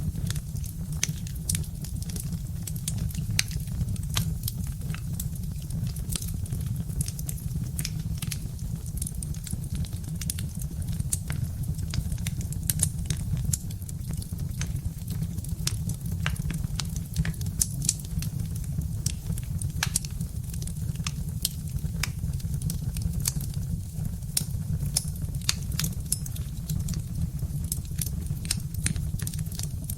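Birch-wood fire crackling: frequent irregular sharp pops and ticks over a steady low rumble.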